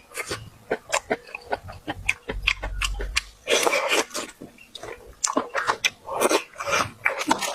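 Close-up mouth sounds of a person eating: wet chewing and lip smacking in a quick, irregular run of clicks, with a few longer noisy stretches.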